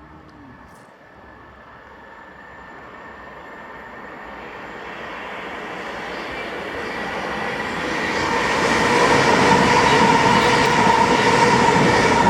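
ScotRail passenger train approaching and passing on the Glasgow–Edinburgh line. It grows steadily louder over about eight seconds with a rising rush and a steady whine, and is loudest in the last few seconds.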